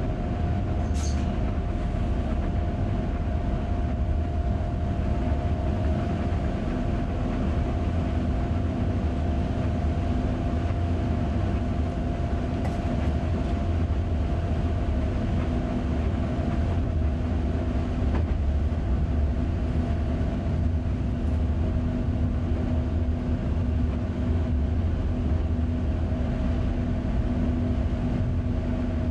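Electric train running along the track: a steady low rumble with a constant hum over it, and a brief high squeak about a second in.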